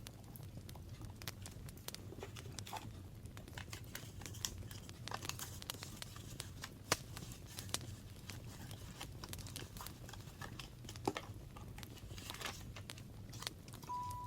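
Paper being handled and worked in a craft journal: crinkling and rustling with many scattered light clicks and taps, over a low steady hum.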